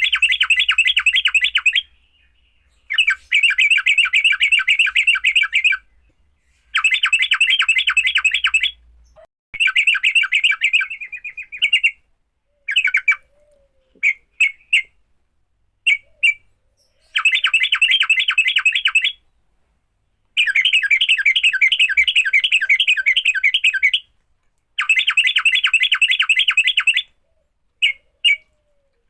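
Yellow-vented bulbul (trucukan) giving its fighting call: loud bursts of fast, rapidly repeated chattering notes, each burst lasting two to four seconds with short pauses between. In the middle there are a few single short chirps.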